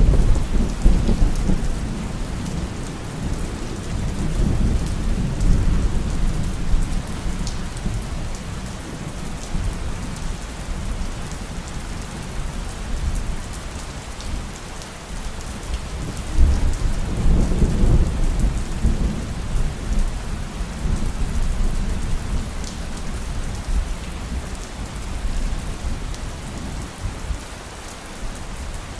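Steady heavy rain with rolling thunder. A deep rumble is loudest at the start and fades over several seconds, and a second one rolls in a little past halfway.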